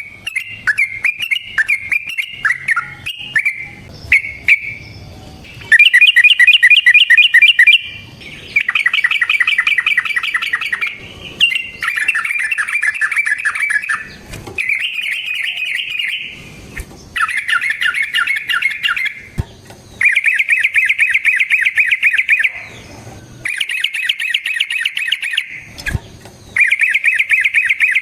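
Yellow-vented bulbul (trucukan) singing in long, rapid-fire trilled phrases ('ropel'), one after another with short breaks. The opening seconds are broken chattering notes instead.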